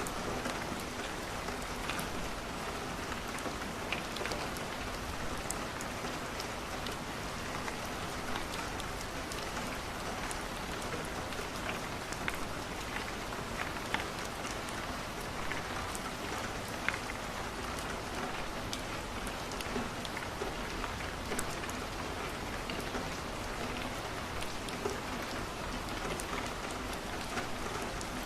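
Steady rain falling on a window, with scattered sharp crackles of burning wood from a fireplace.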